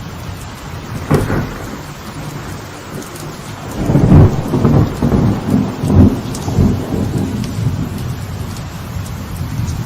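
Light rain falling steadily on a veranda, with a sharp crack of thunder about a second in and then a louder rolling rumble of thunder from about four to seven seconds.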